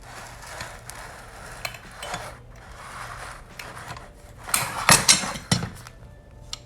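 Tools and a floorboard being handled: rubbing and scraping with small clicks, then a louder burst of knocking, clattering metal and wood about four and a half seconds in.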